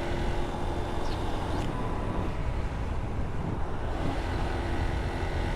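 Motorcycle being ridden along a highway: steady engine and road noise at an even pace, with no change in speed.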